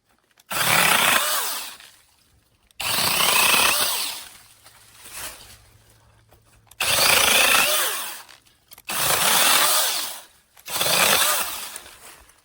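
Cordless brushless mini chainsaw running in five short bursts of about a second and a half each, as the trigger is pulled and released. Each burst starts sharply and winds down as the chain slows.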